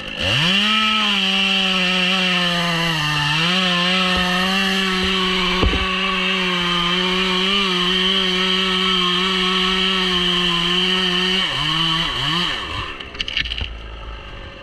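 Two-stroke chainsaw revving up and running at full throttle, cutting through white birch wood for about eleven seconds. Its pitch dips briefly under load about three seconds in; it then drops back, with a short blip of the throttle, and idles down.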